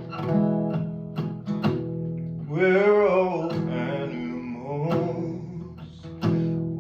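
Song intro on acoustic guitar, picked notes ringing over a held chord, joined about two and a half seconds in by a voice singing a wordless, wavering line.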